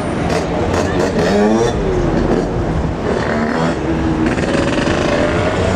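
Steady low rumble of a freight train's hopper wagons rolling away along the track, with nearby road vehicles whose engine notes rise and fall as they pass, about a second in and again near the end.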